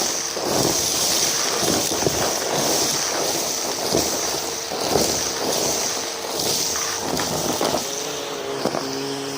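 Numatic James cylinder vacuum cleaner running steadily, picking up crunchy debris with irregular crackling and rattling. Near the end its motor note shifts.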